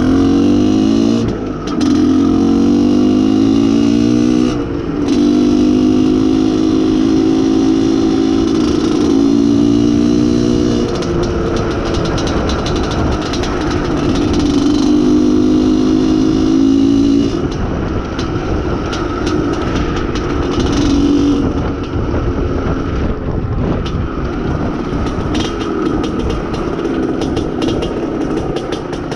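IZh Planeta Sport motorcycle's single-cylinder two-stroke engine running under way while the engine is being run in, its pitch rising and falling with the throttle. The sound drops briefly twice in the first five seconds.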